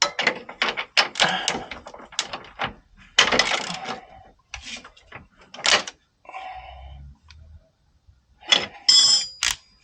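Metal hand tools clanking and clinking against one another and against metal parts in a string of irregular knocks, with a few bright ringing metallic strikes near the end.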